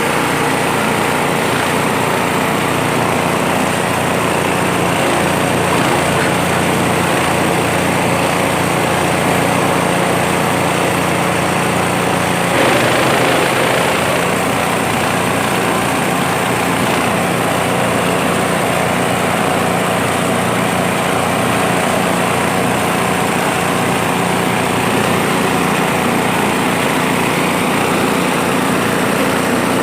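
Type G 20 grass chopper (forage chopper) machine running steadily on its small engine, with a brief surge of louder noise about twelve seconds in.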